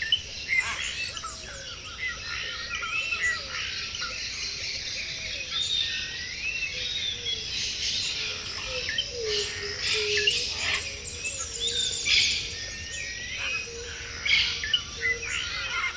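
Several rainforest birds calling over one another, with many short whistled notes sliding up and down and a run of lower notes beneath them. A steady high insect hum runs under the calls.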